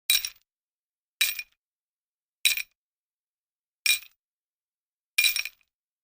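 A bright, sharp metallic clink sound effect, struck five times at an even pace of about one every 1.3 seconds, each strike ringing briefly and dying away fast.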